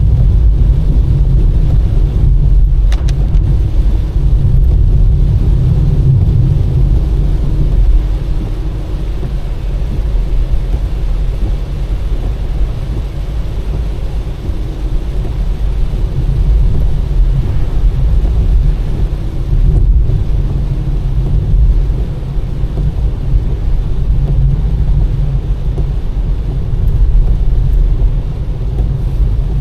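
Steady low rumble of a car driving along a rain-wet road, tyre and engine noise running evenly with small swells in level.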